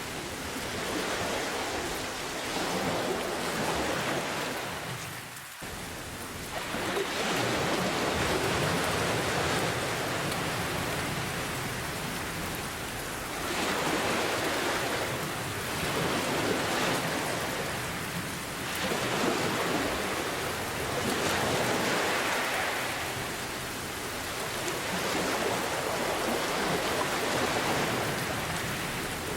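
Steady rain mixed with ocean waves, the noise swelling and easing every few seconds as waves wash in and draw back.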